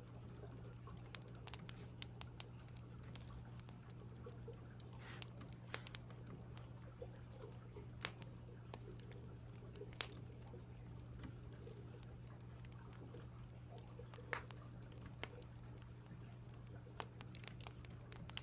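Scattered, irregular clicks from computer keyboard keys and crackling firewood, a few every couple of seconds, over a steady low hum.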